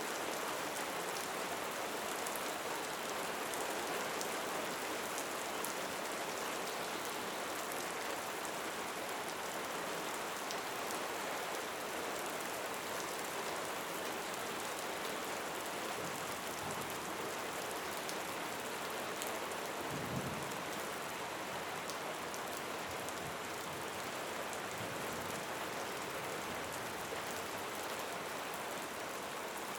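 Steady rain falling and pattering on surfaces, with fine drop ticks throughout and a brief low thud about two-thirds of the way through.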